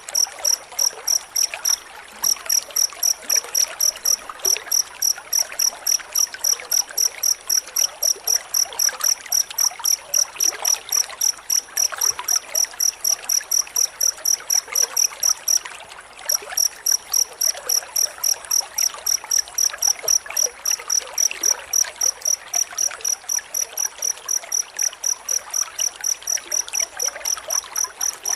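A cricket chirping in a dense, even rhythm, about four high-pitched chirps a second, with brief breaks about two seconds in and at about the middle. A steady hiss runs underneath.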